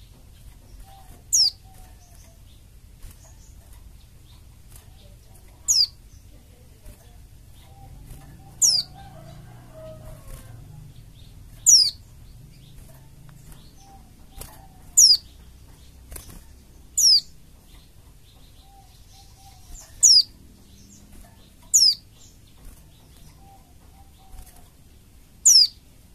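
White-eye (pleci) giving short, high, thin calls that sweep downward, about nine of them a few seconds apart, played as a lure call. Faint lower chirping sits underneath.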